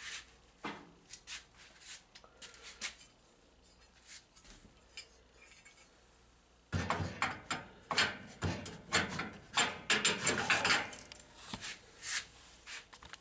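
Hand work on vending-machine rotor and motor parts: scattered clicks and knocks, then from about seven seconds in a dense run of clattering and scraping for about four seconds as parts are handled and fitted.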